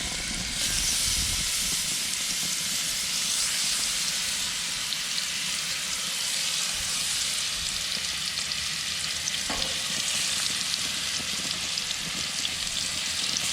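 Pieces of dorado fillet sizzling and crackling in hot ghee in a cast iron skillet, the sizzle growing louder about half a second in.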